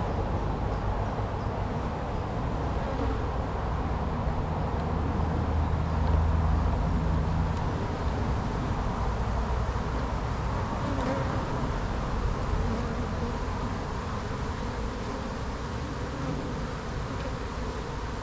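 A mass of honey bees buzzing around an open hive as frames are lifted out, a dense, steady hum with no let-up. A low rumble swells briefly about six seconds in.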